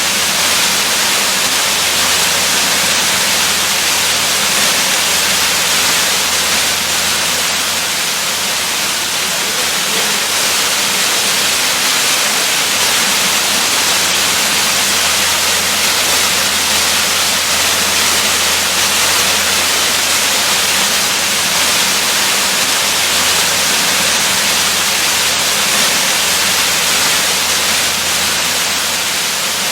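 Waterfall: a steady, unbroken rush of falling water, a dense hiss strongest in the highs with a low steady rumble beneath.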